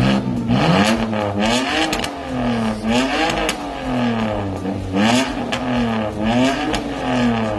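BMW E91 325i's straight-six engine revved several times in a row through a resonator- and muffler-delete 3-inch exhaust, its pitch rising and falling about once a second.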